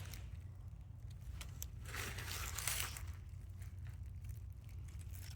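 Rustling and crinkling, loudest about two to three seconds in, with scattered small clicks, over a low steady rumble.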